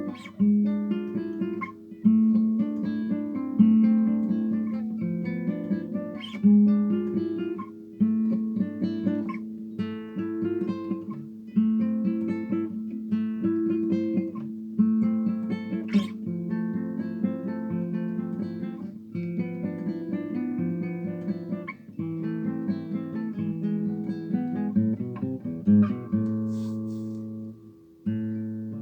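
Solo acoustic guitar playing a slow instrumental piece: plucked melody notes ringing over sustained bass notes, with a brief pause near the end.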